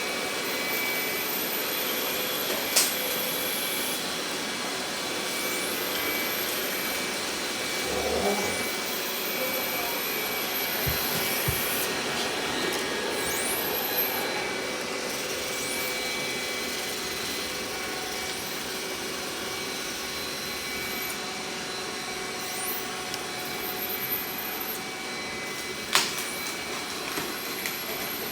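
Robot vacuum cleaner running steadily: a continuous whir and hiss from its suction motor and brushes, with a steady high tone. There are two sharp knocks, one about three seconds in and one near the end.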